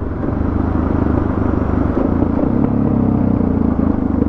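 Suzuki DR650's single-cylinder four-stroke engine running steadily under way on a dirt road, heard from the rider's helmet.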